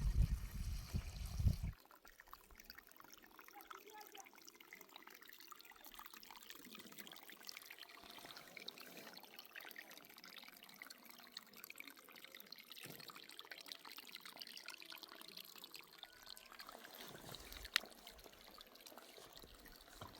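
Irrigation water trickling faintly and steadily, with a low rumble in the first two seconds and one sharp click near the end.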